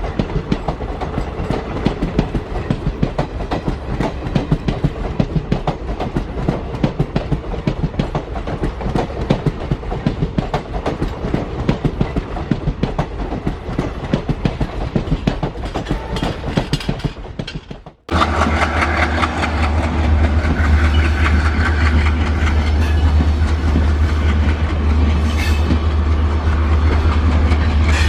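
Train running sound: rapid clickety-clack of wheels over rail joints. About 18 seconds in it cuts abruptly to a louder, steady rumble with a deep hum.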